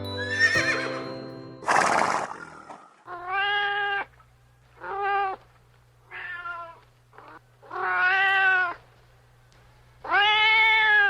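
A domestic cat meowing five times, each call drawn out for about half a second to a second, with gaps of about a second between them, over a faint steady low hum. Near the start the last notes of a chiming jingle fade out, and a short hissing burst follows about two seconds in.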